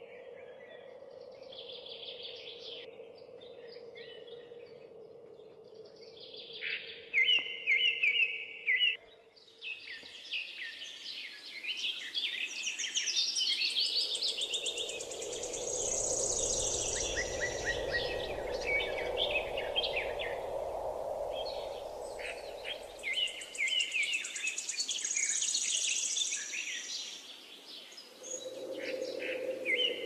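Several birds chirping and trilling in quick, overlapping calls over a steady low hum. A low rushing noise swells up in the middle and fades out a few seconds later.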